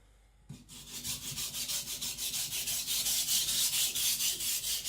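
Steel nakiri blade being stroked back and forth on a coarse 220-grit whetstone, a gritty rubbing in rapid, even strokes. It starts with a light knock about half a second in as the blade goes onto the stone.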